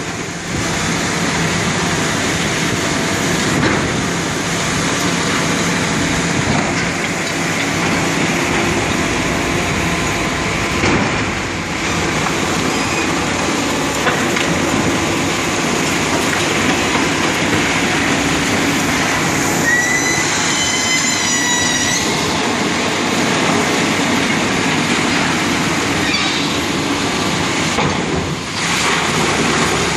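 Demolition machinery working on a concrete building: continuous rumbling, crunching and rattling, with a short high metallic squeal about twenty seconds in.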